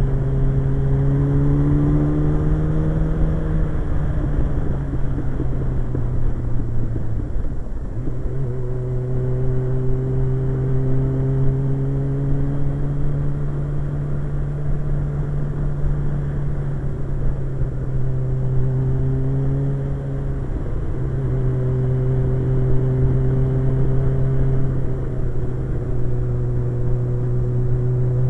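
Suzuki GSX-R 1100 motorcycle's inline-four engine running under way at a steady note, with wind rushing past. The engine pitch rises in the first few seconds, and the note drops briefly three times, about 4, 8 and 20 seconds in, before picking up again.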